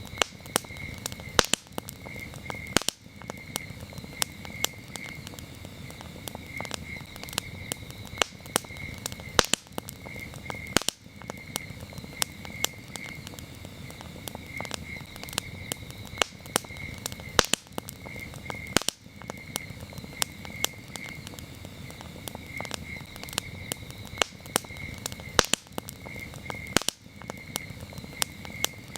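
A campfire crackling, with frequent sharp pops and snaps over a steady low hiss. Crickets chirp in a steady, high, pulsing rhythm behind it.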